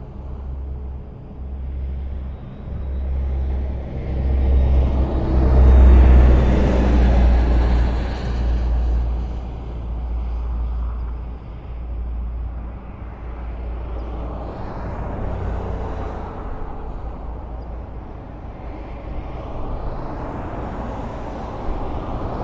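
Highway traffic: vehicles passing with a steady low rumble of engines and tyres, the loudest pass swelling about six seconds in and another building near the end.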